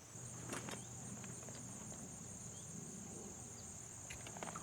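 A steady high-pitched insect chorus trilling, with a couple of faint clicks about half a second in and near the end.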